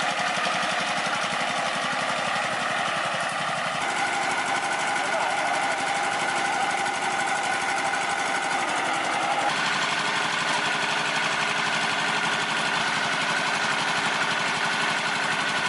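A machine running with a fast, even mechanical clatter, its tone changing abruptly about four seconds in and again about nine and a half seconds in.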